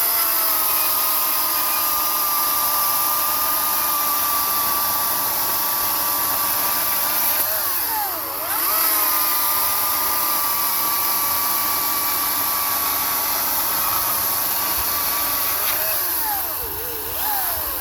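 Greenworks 80-volt battery electric chainsaw with an 18-inch bar running at full speed and cutting through a wood slab: a steady high motor whine with chain noise. The pitch dips briefly about halfway through, then comes back up, and it winds down near the end.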